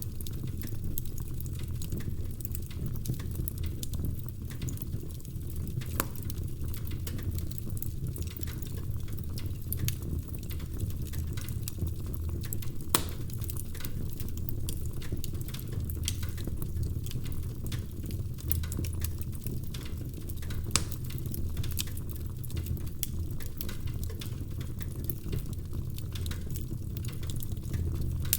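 Wood fire burning in a fireplace: logs crackling and popping over a steady low rumble, with a few louder pops at about 6, 13 and 21 seconds in.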